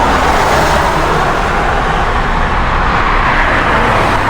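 Steady rushing noise while riding a bicycle: wind over the action camera's microphone together with tyre and road rumble.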